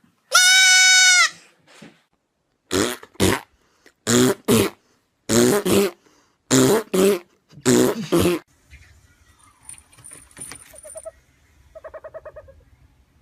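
A goat bleats loudly once, a long steady call, followed by a run of loud, harsh animal calls coming in pairs, five pairs in all. A fainter, short pulsing call comes near the end.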